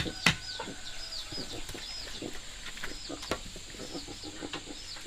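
Chickens clucking, with short high chirps repeating throughout. Two sharp knocks right at the start.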